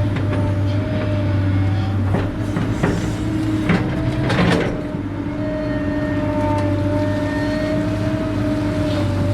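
Excavator's diesel engine running steadily, with several metallic clanks and scrapes from the digging about two to five seconds in.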